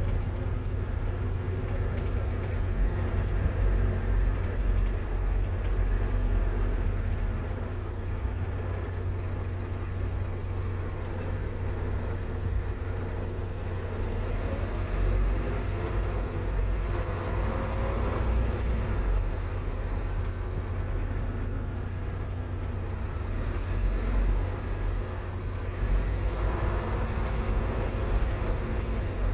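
Scania K230UB Omnilink bus's diesel engine running under way with a steady low drone. The engine note shifts and rises in pitch around the middle.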